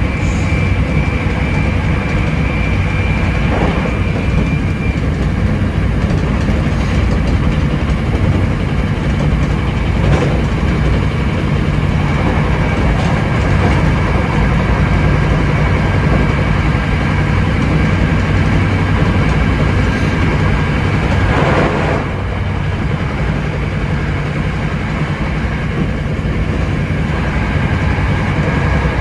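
Hankyu 7300 series electric train running along the track: a steady rumble of wheels on rails with a low hum and a few separate clacks over the rail joints. A high steady tone fades out about five seconds in.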